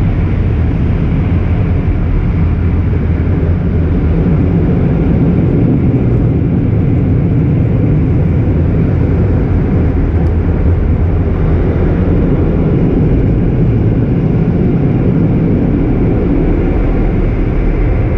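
Car wash tunnel dryer blowers running, a loud steady rush of air against the car, heard from inside the cabin.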